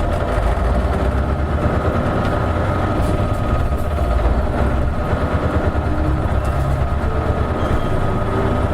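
Isuzu Erga (KL-LV280N1) city bus diesel engine running steadily, a low rumble with a faint steady whine above it.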